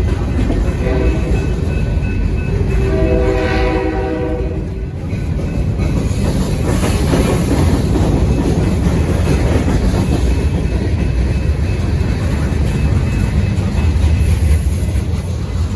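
Train horn blowing one long blast that starts about a second in and stops about five seconds in. A train then passes with a steady rumble and the clickety-clack of wheels on rail joints.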